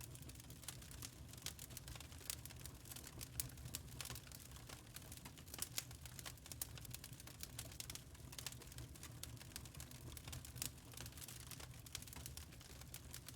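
Campfire crackling: burning wood gives off many irregular sharp pops and snaps over a low, steady rumble.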